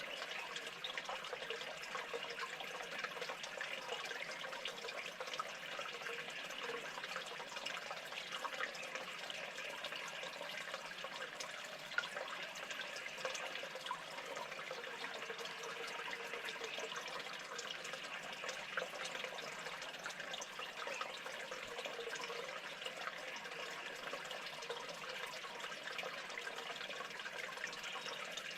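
Steady running or trickling water.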